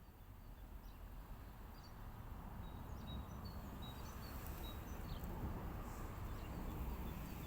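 Small birds chirping faintly with short, high calls over a steady low rumble of outdoor background noise that grows gradually louder.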